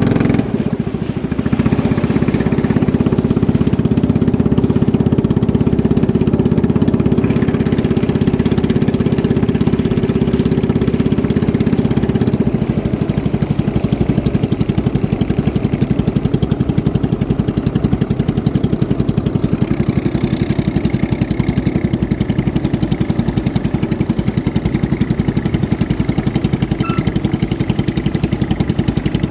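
Boat engine running steadily at speed, a loud continuous drone with a fast, even firing pulse that grows more distinct about halfway through.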